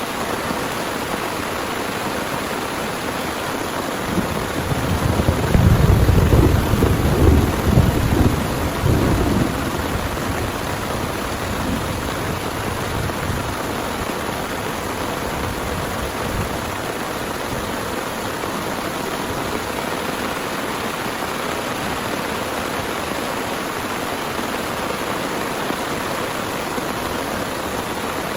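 Heavy rain pouring steadily, with a low rumble of thunder that swells about four seconds in and dies away by about ten seconds.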